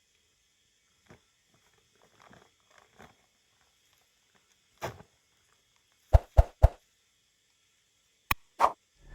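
A few faint scattered knocks, then three loud short thuds in quick succession about six seconds in, and two sharp clicks near the end.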